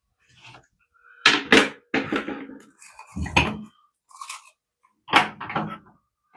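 Metal clanking and knocking as the gas water heater's burner assembly and its parts are handled during cleaning: two sharp knocks about a second and a half in, a clatter, a heavier thud around three and a half seconds, and three quicker knocks near the end.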